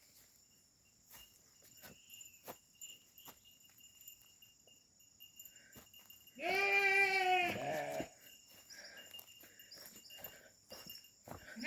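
Sheep bleating: one long call about six seconds in, dropping lower at its end, with faint scattered clicks around it.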